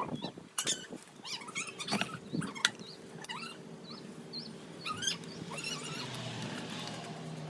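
Small birds chirping repeatedly in short, pitch-bending calls. Near the end, a vehicle engine comes in as a low hum rising in pitch.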